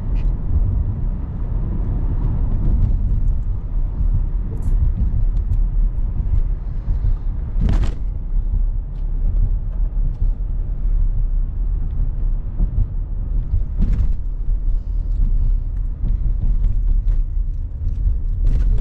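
Steady low rumble of a car driving, road and engine noise heard from inside the cabin, with two short clicks about eight and fourteen seconds in.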